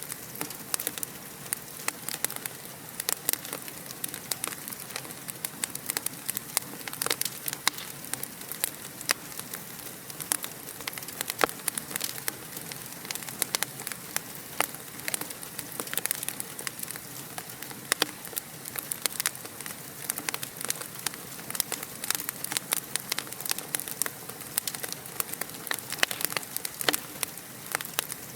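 Wood fire crackling steadily, with frequent sharp pops and snaps over a soft hiss.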